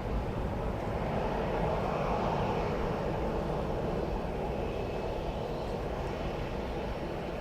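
Jet airliner engines: a steady rushing noise that swells slightly about two seconds in and then slowly eases.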